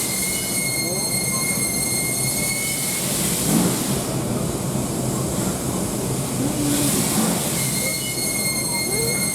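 Steam locomotive C57 1 making a high-pitched metallic squeal, a steady whine about two and a half seconds long, heard twice, with a brief hiss between and the train's low rumble throughout. This abnormal squeal is the sign of a failing cylinder: a broken sealing part in the left cylinder, the damage appears to be.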